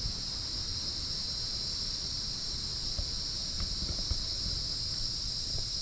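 Steady high-pitched chorus of insects in rainforest, with a low wind rumble underneath and a few soft footfalls.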